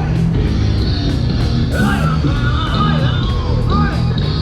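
Rock band playing with a singer over a steady, fast drum beat, heard as live music at an outdoor event.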